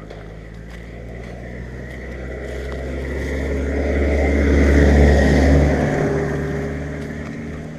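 A motor vehicle's engine passing by: it grows steadily louder to a peak about five seconds in, then fades away.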